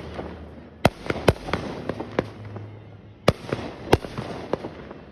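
Fireworks exploding: sharp bangs at irregular intervals with crackling in between. Two loud bangs come close together about a second in, and another pair a little after three seconds.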